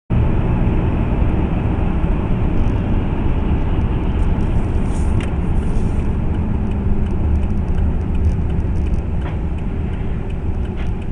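Car driving: steady engine and road noise, heaviest in the low end, with a few faint ticks.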